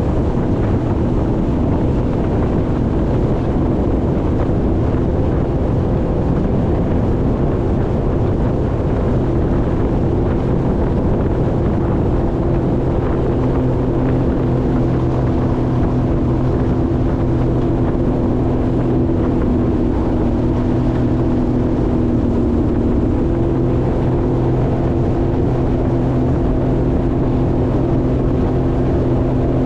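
Jet ski engine running steadily under way, a constant drone over rushing wind and water noise on the microphone. The engine's hum comes through more clearly about halfway through.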